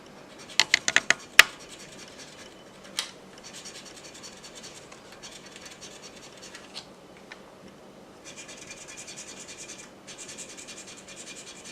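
Scratch-off lottery ticket being scratched, its coating rubbed away in quick repeated strokes in several spells, after a few sharp clicks in the first second and a half.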